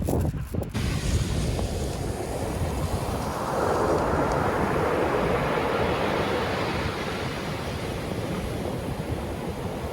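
Caspian Sea surf washing onto the shore, one surge swelling about three and a half seconds in and slowly easing off, with wind rumbling on the microphone.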